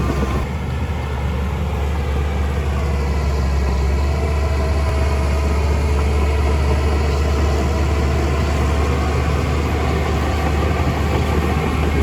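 Heavy diesel engine of a construction machine running steadily with a deep low hum.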